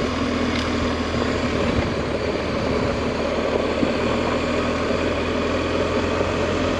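Adventure motorcycle engine running steadily while riding, under an even rush of noise.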